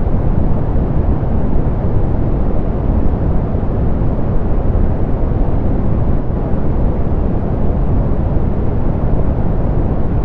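Soft pink noise: a steady, even hiss-like rush weighted toward the low end, with the highs rolled off, unchanging throughout.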